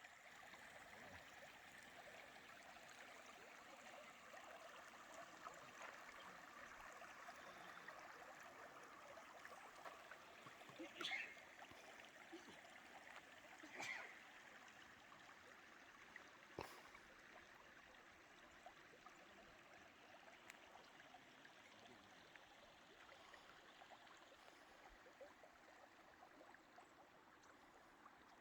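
Faint, steady trickling water, with three brief louder splashes or knocks about eleven, fourteen and seventeen seconds in.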